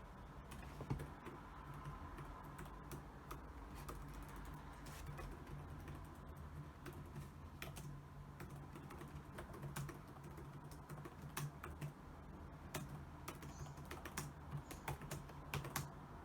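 Typing on a computer keyboard: irregular runs of key clicks, busier and louder in the second half, over a faint steady low hum.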